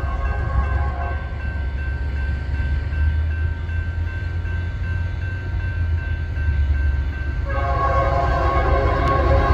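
Union Pacific SD70M diesel locomotive sounding its air horn as it approaches: a blast that ends about a second in, then another that starts about three-quarters of the way through, over the steady low rumble of the engine.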